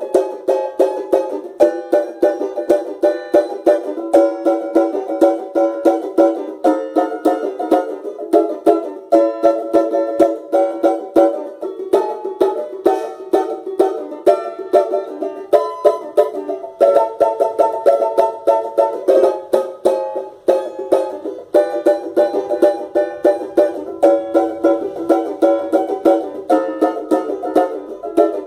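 Banjo playing a fast run of bright plucked notes, each with a sharp attack that dies away quickly.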